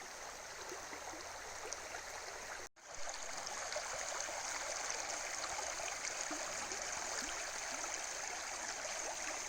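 River water flowing steadily. There is a brief gap about three seconds in, and the flow is a little louder after it.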